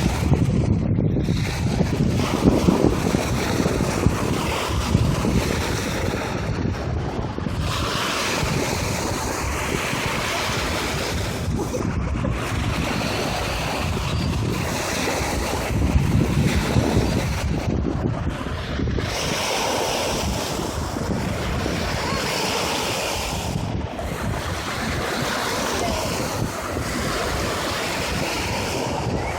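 Wind buffeting the microphone in steady gusts, over the wash of lake water.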